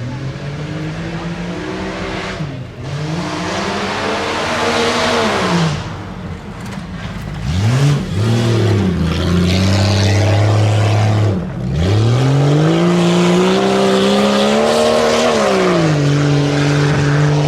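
Tuff truck's engine revving hard on a timed off-road run, its pitch climbing and falling again and again as the driver gets on and off the throttle, with long stretches held near full revs. Near the end the revs drop to a lower, steady pitch.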